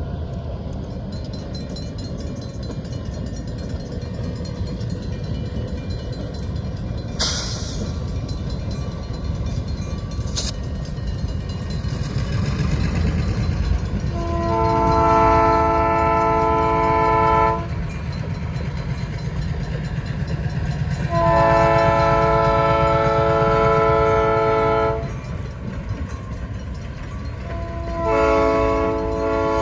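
Diesel locomotive running light engine, its engine rumbling steadily and growing louder, while its air horn sounds two long blasts and starts a third near the end.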